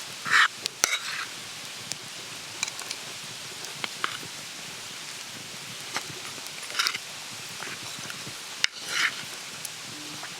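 Eating from a dish with utensils: a few short scrapes and small clicks, over a steady outdoor hiss.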